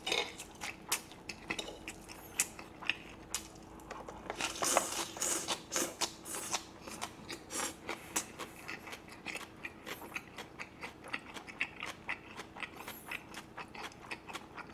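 Close-miked chewing and crunching of food, mixed with sharp clicks of metal tongs against the plate, in many short, irregular bursts.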